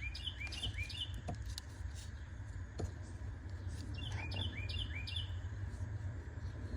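A bird singing quick runs of four or five repeated chirps, once near the start and again about four seconds in, over a steady low rumble, with a couple of faint clicks.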